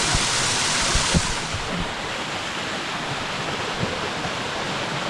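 Waterfall pouring steadily, a continuous rush of falling water; the bright hiss in it dims about a second and a half in. A few soft low knocks come about a second in.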